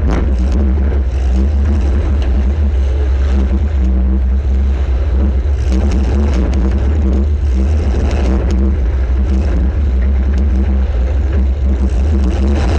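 Compact demolition-derby car's engine running loud and steady, heard from a camera mounted on the car, with a heavy low rumble. A few sharp knocks break through it.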